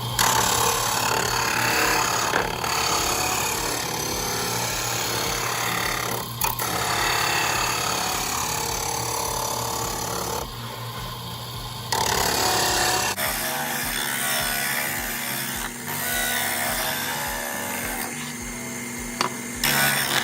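Power tool cutting and shaping window openings in a wooden car audio speaker box: a steady motor hum under dense cutting noise, changing in character about thirteen seconds in.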